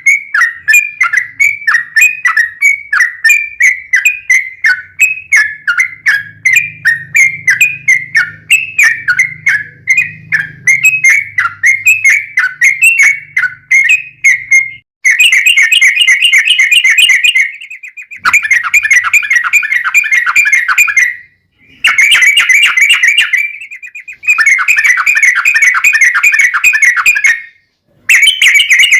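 Yellow-vented bulbul (trucuk) singing loudly. First comes a run of quick repeated chirping notes, about three a second. Then, about halfway through, it breaks into long rapid rolling trills ('ropel panjang') a few seconds each, with brief pauses between phrases.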